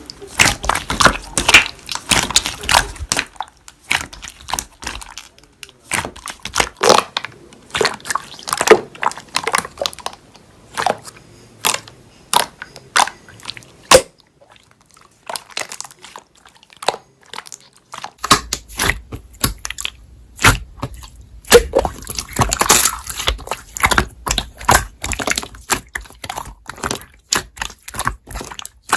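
Slime being squished, poked and stretched by hand, giving a dense run of sticky clicks, pops and crackles. The clicking thins out to near quiet for a few seconds in the middle, then starts again over a faint low hum.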